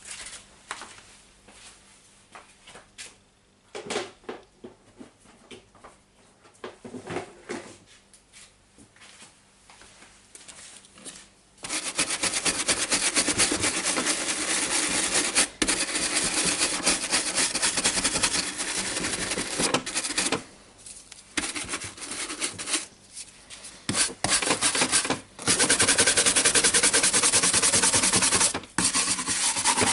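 Brush scrubbing dust off an old DeWalt DC011 site radio: a few light scrapes and taps at first, then, about a third of the way in, fast continuous scrubbing strokes with a few short breaks.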